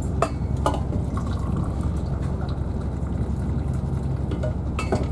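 Hot drink being poured into a cup at a refreshment trolley, with a few sharp clinks of crockery near the start and again near the end. Underneath runs the steady low rumble of a Class 222 diesel train.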